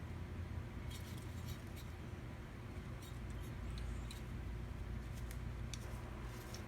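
Faint scattered clicks and small handling noises over a steady low hum.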